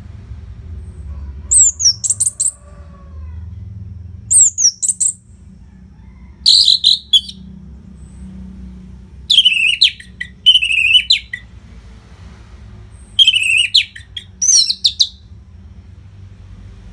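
Orange-headed thrush singing in short, rapid phrases of high, quick sliding and stuttered notes, a new phrase every second or two. A faint low hum lies underneath.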